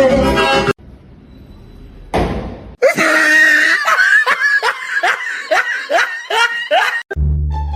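Rapid run of about nine short, high-pitched laughing cries, roughly two a second, after a brief whoosh-like swell. Music plays at the start and cuts back in near the end.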